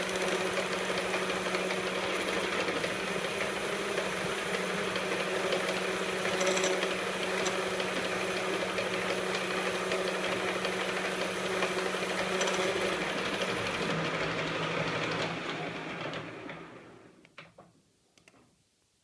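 E1N lathe running steadily under power, a machine hum with a steady tone, then switched off: the pitch drops about three-quarters of the way through and the sound fades as the spindle coasts to a stop. A few faint clicks follow near the end.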